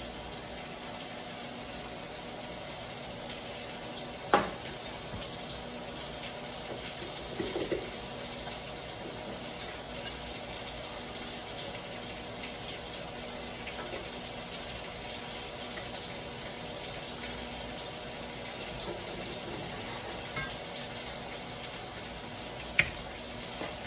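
Food sizzling steadily in hot oil in a wok on a gas hob, over a steady low hum. A sharp click or knock about four seconds in and another near the end.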